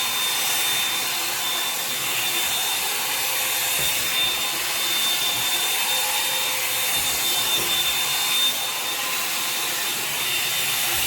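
Revlon One-Step hair dryer brush running steadily, a rush of blown air with a thin high whine from its motor, as it is worked through the hair.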